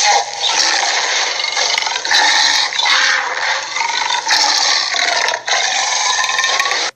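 Cartoon tyrannosaur sound effect: Red Claw's harsh, raspy screeches, several in a row with short breaks between them, cutting off suddenly near the end.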